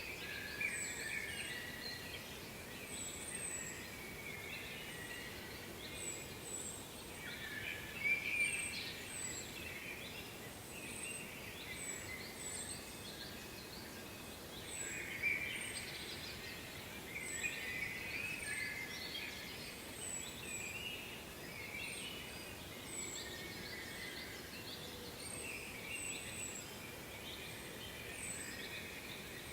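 Several birds singing and chirping, with busy warbling song and a run of short, very high chirps repeating about once or twice a second, over a faint steady hiss.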